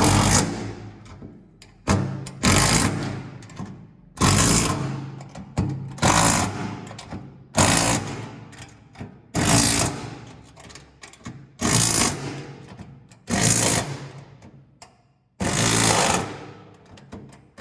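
Power impact driver hammering in short bursts, about nine in a row, each a second or so long, as bolts are run in or out.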